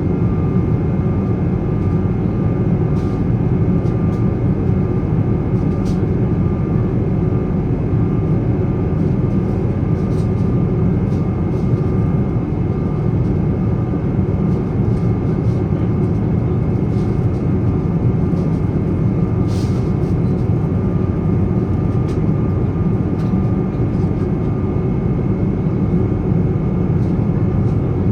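Steady in-cabin noise of a Boeing 777-300's Rolls-Royce Trent 800 jet engines: a constant low rumble with a steady whine on top.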